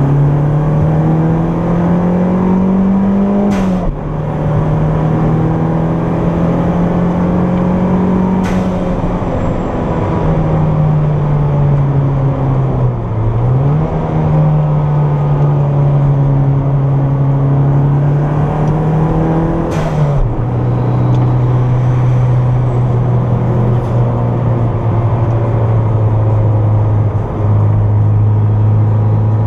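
Turbocharged Toyota MR2's four-cylinder engine under load from inside the cabin, revs climbing and then dropping sharply at three gear changes, with a brief dip and pick-up in between. It runs at steady, lower revs near the end.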